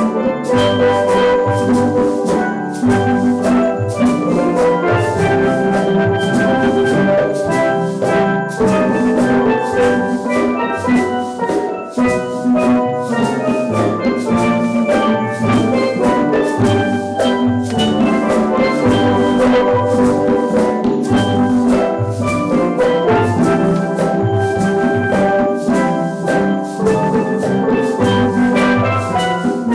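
Steel drum band playing a lively tune, the pans carrying the melody and chords over a steady beat of drums and bass.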